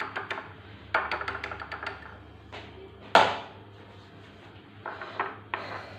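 A spoon clinking and scraping against a bowl while a thick cream is mixed, in quick runs of small clicks, with one sharp, louder knock about three seconds in.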